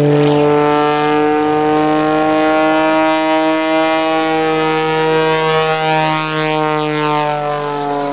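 Pitts S2S Viper aerobatic biplane's modified 400-horsepower Lycoming engine and propeller at high power, a steady pitched drone that shifts slowly in pitch as the plane manoeuvres.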